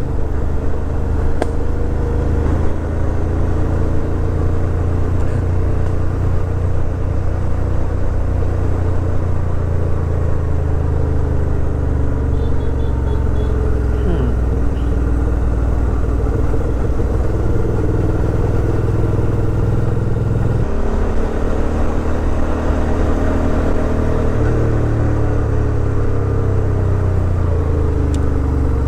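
Suzuki V-Strom 650 XT's V-twin engine running under way, its pitch rising and falling with the throttle, with a sudden drop in pitch about two-thirds of the way through, as at a gear change.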